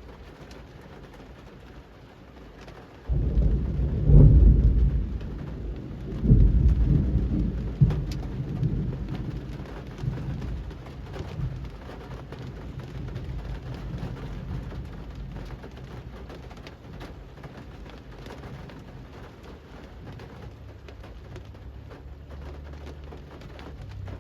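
Steady rain falling on a street, with a roll of thunder that breaks in about three seconds in, swells twice and rumbles away slowly over several seconds.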